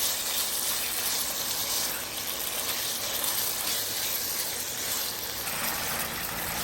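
Pieces of chicken frying in hot oil, a steady sizzle.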